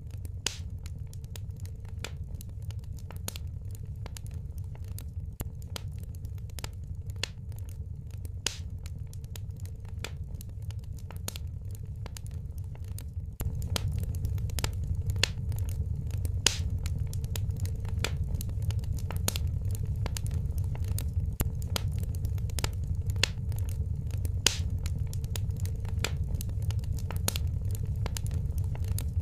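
Fireplace fire crackling, with uneven sharp pops over a steady low rumble of flame. It grows louder about halfway through.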